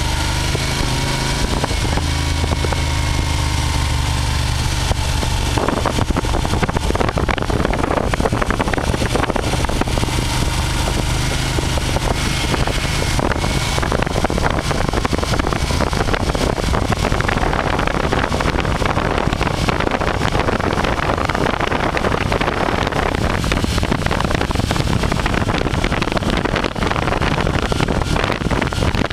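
Motorcycle engine running while riding, with wind rushing over the microphone. The engine's steady hum is clearest for the first five seconds or so; after that a loud wind rush covers it.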